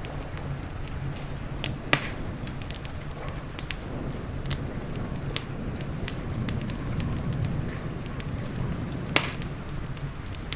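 Wood fire crackling in a fireplace: scattered sharp crackles, with two louder pops about two seconds in and near the end, over a steady low rumble.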